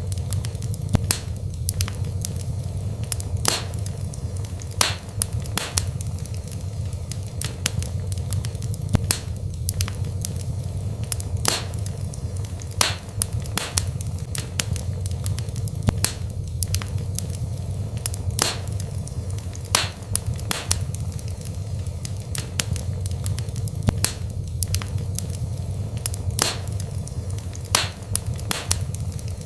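Wood burning in a fireplace: frequent sharp, irregular crackles and pops over a steady low rumble of the fire.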